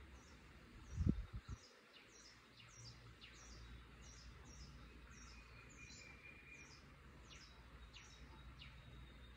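Birds chirping faintly, a short high falling chirp repeated a little more than once a second, with a brief low thump about a second in.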